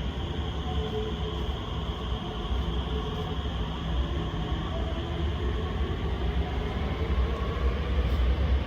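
SMRT R151 electric metro train running, a steady low rumble with faint tones in the mid range.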